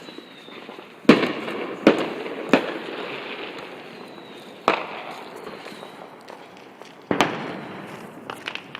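Fireworks exploding: five sharp bangs, three in quick succession about a second in, then two more spaced a few seconds apart, each trailing off in a long fading rumble.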